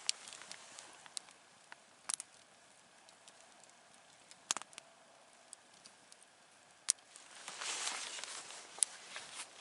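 Campfire wood burning, crackling with scattered sharp pops and snaps. A soft rushing hiss swells up about seven and a half seconds in and lasts a second or two.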